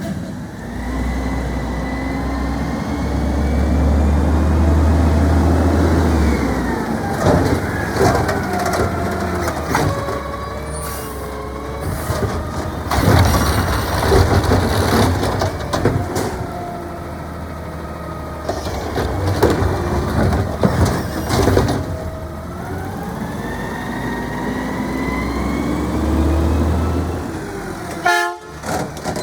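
Garbage truck engine running and revving up and down, with repeated metal clanks and bangs in clusters through the middle. The sound drops out briefly near the end.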